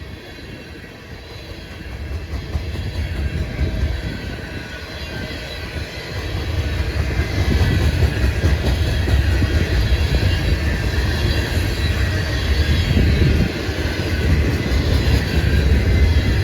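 Diesel locomotives and a loaded coal train moving by on the rails: a low rumble that grows louder over the first several seconds, then holds steady.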